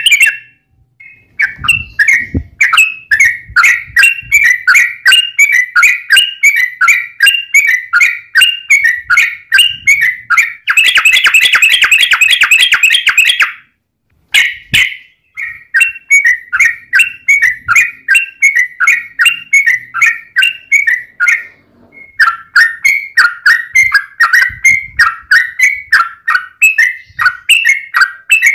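Yellow-vented bulbul (trucukan) calling in long, rapid runs of short chattering notes, about four a second. About eleven seconds in comes a faster, louder run, then a brief break before the notes start again.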